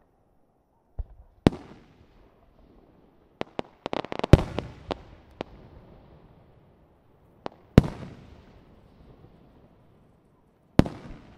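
Aerial firework shells bursting with sharp bangs, each followed by a fading echo. There are single bangs about a second in, a quick run of crackling pops around four seconds in, and two more loud bangs later, near eight and eleven seconds.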